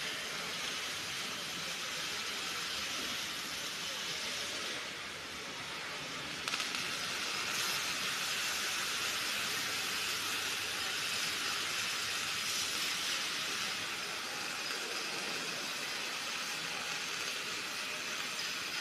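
Electric arc welding: a steady, crackling hiss of the arc. It weakens briefly about five seconds in and picks up again with a sharp crack a second or so later.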